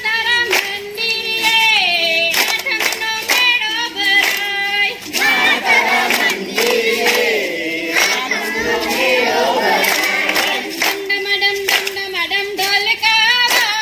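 Garba song sung by a group of voices, with sharp hand claps keeping the rhythm.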